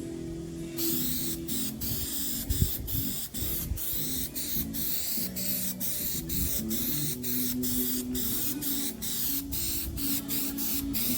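Aerosol can of Plasti Dip spraying in rapid short bursts, starting about a second in, with background music underneath.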